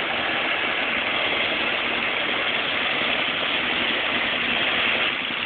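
Construction compactor running steadily and loudly, its engine and vibrating mechanism making a dense, continuous noise: the vibration that shakes the neighbouring apartment building.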